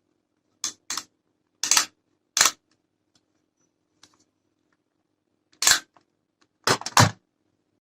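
A series of short, sharp clicks and knocks, like objects being handled and set down: four spread over the first two and a half seconds, then several close together near the end, over a faint steady hum.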